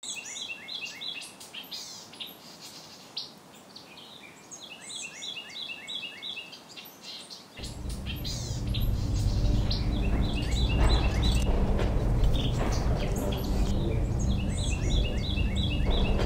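A songbird singing short bursts of quickly repeated two-note chirps, four phrases in all. About halfway through, a low steady hum comes in and stays, louder than the bird.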